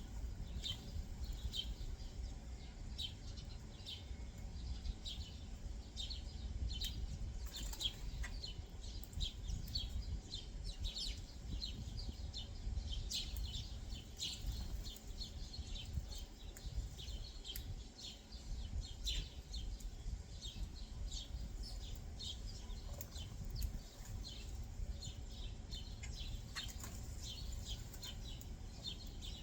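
Small backyard birds chirping continually, many short high chirps overlapping several times a second, over a low steady rumble.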